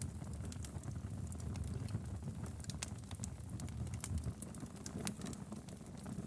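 Wood fire burning, with a steady low rumble and irregular sharp crackles and pops from the burning logs.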